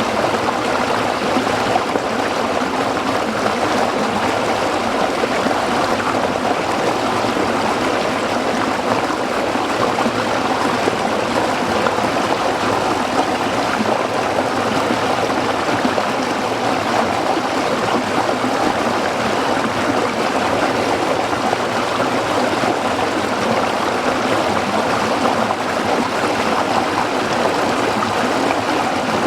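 A small stream flowing and burbling over rocks, a steady rush of water with no breaks.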